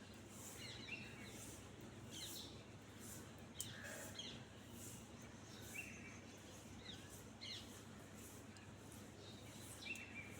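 Faint bird chirps: short calls scattered every second or two over a quiet background hiss, with one sharp click about three and a half seconds in.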